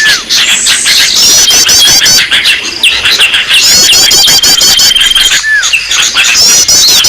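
Bird-lure recording of several small songbirds calling at once: fast runs of high chirps, a long steady whistled note and short falling calls, the same pattern repeating. It is the kind of call played to draw small birds in.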